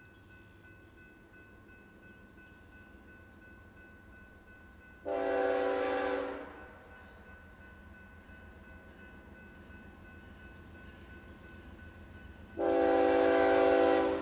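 Diesel freight locomotive's air horn sounding two long chord blasts, the second starting near the end, over the low rumble of the approaching train.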